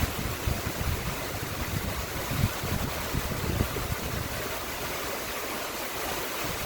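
Steady rush of water from a lake's outflow stream, with low, uneven gusts of wind buffeting the microphone.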